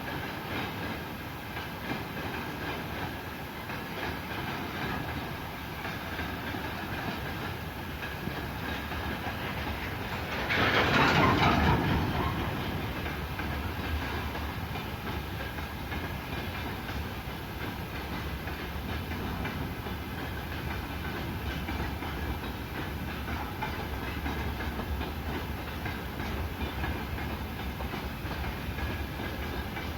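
Train running past on the track, a steady rumble with wheels clicking over the rail joints. About ten seconds in it swells into a louder rush for a couple of seconds, then settles back.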